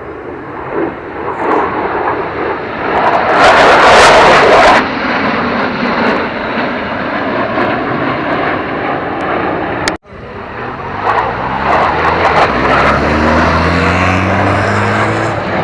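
Aircraft flying past, loudest about four seconds in. After an abrupt cut partway through, a second aircraft sound follows, with tones rising in pitch.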